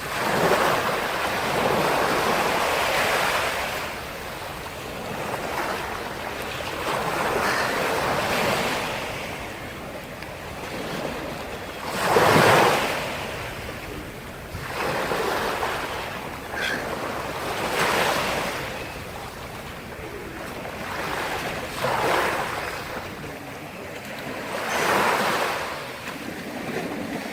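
Sea surf: waves breaking and washing onto the shore, the noise swelling and falling away every few seconds, with the biggest wave breaking about halfway through.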